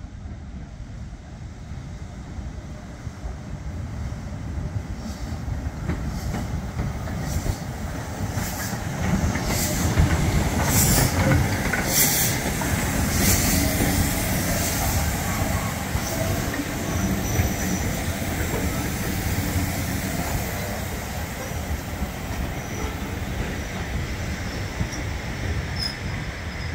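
A train running on the line, growing louder over the first ten seconds or so and then holding steady, with short bursts of high-pitched noise between about five and fifteen seconds in.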